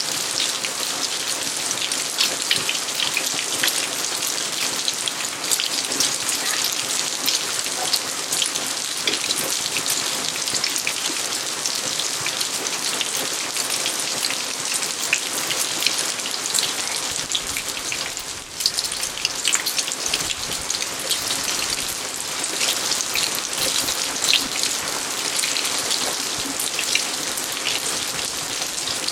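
Steady rain falling, a dense scatter of small drop hits over an even hiss.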